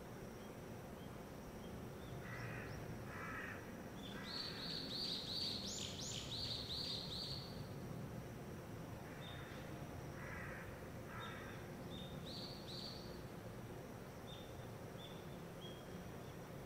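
A crow cawing, a few harsh calls in pairs, while another bird gives runs of rapid high-pitched notes, loudest a few seconds in. Underneath is a faint steady background hum.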